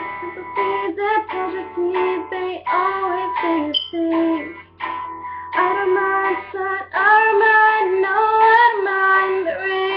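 A solo voice singing along to a plucked guitar, the sung phrases bending in pitch over ringing picked notes.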